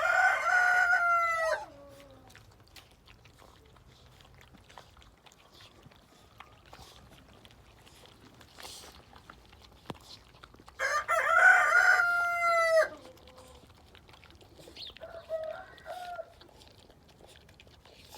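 Rooster crowing twice: one crow at the start and another about eleven seconds in, each a loud drawn-out call that drops off at the end, with a few fainter short calls from fowl later on.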